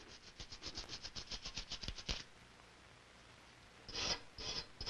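Engraving tool cutting a brass side plate: a quick run of light, sharp strokes, about seven a second. The strokes pause for under two seconds and start again near the end.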